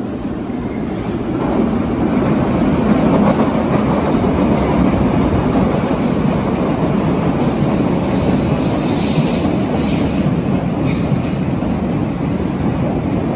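Berlin U-Bahn large-profile train running on the track: a steady rumble of wheels and running gear that swells about a second and a half in, with a clatter of sharp noises in the middle.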